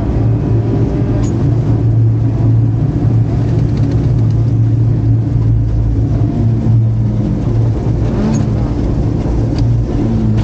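Rally car engine pulling hard at fairly even revs, heard from inside the cabin, with a few faint sharp ticks over it.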